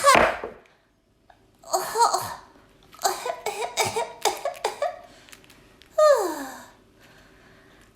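A person voicing a newly hatched baby bird puppet with squeaky cheeps and chirps. There is a falling squeak at the start, a quick run of short chirps in the middle, and a long falling squeak near the end.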